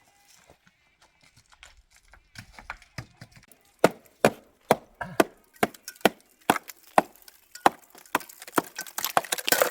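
A run of sharp knocks or impacts, about two a second, faint at first and louder from about four seconds in.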